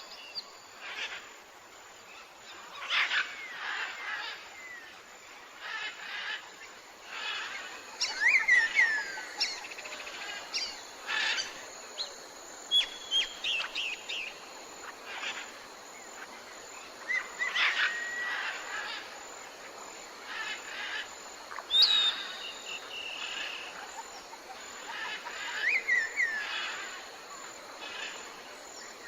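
Birds calling in a tropical forest: scattered chirps and short whistles, some sliding down in pitch, over a steady hiss of background forest noise.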